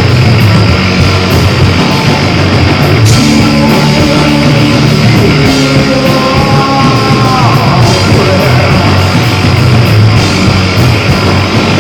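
Loud live rock band playing: distorted guitars and drums in a dense, steady wall of sound, with a sliding guitar line a little past the middle.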